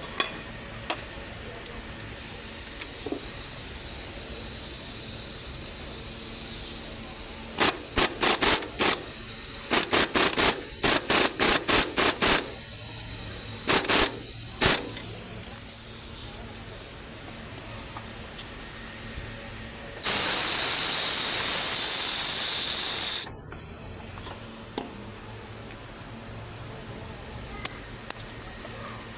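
Hissing spray: about a dozen short bursts in quick succession, then one loud spray lasting about three seconds that cuts off suddenly.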